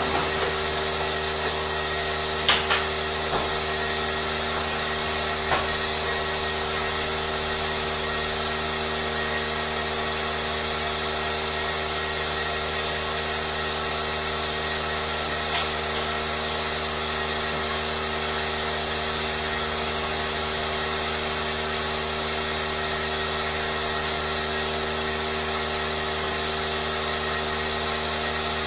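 A machine's motor running steadily with an even hum and hiss that does not change. A few sharp clicks cut through, the loudest about two and a half seconds in and another about five and a half seconds in.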